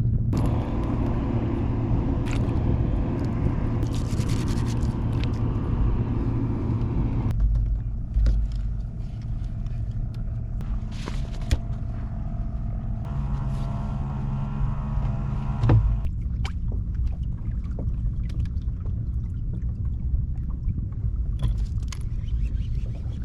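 Small outboard motor running steadily, with a low hum that shifts about seven seconds in and again around a quarter of a minute in.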